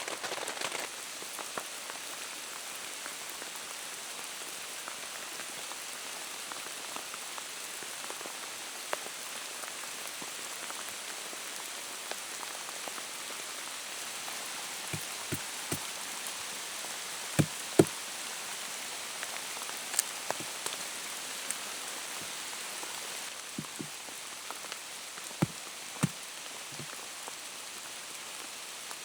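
Steady rain falling on the forest, with a scattering of sharp single knocks, the loudest two close together about two-thirds of the way in and a few more near the end.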